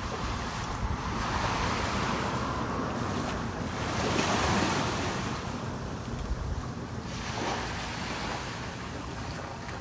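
Ocean waves washing, with wind buffeting the microphone; the wash swells louder about four seconds in and eases off again.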